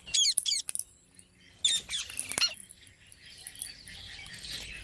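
Pet green parakeet giving short, sharp chirps and squawks in quick clusters: one near the start, one about a second and a half in, and another about half a second later.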